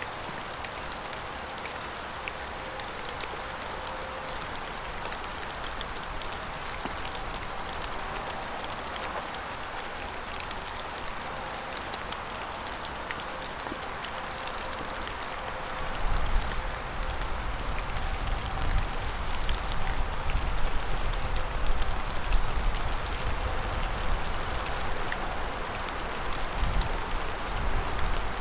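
Steady rain falling, an even hiss dotted with many small drop ticks. About halfway through, a loud low rumble joins it.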